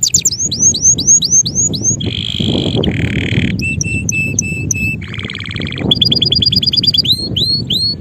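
Male canary singing: a continuous song of rapid trills, each a fast run of one repeated note, switching to a new note type about every second.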